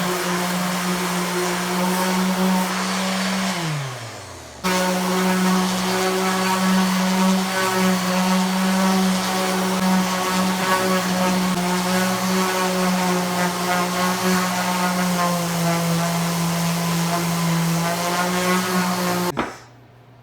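Electric power sander running steadily on wooden pieces. About four seconds in it winds down with a falling pitch, then is running at full speed again a moment later, and it stops abruptly near the end.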